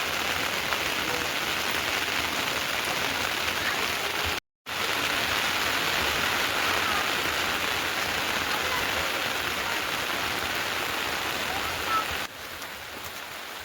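Heavy rain falling steadily, a dense even hiss. It cuts out completely for a moment about four and a half seconds in, and comes back quieter near the end.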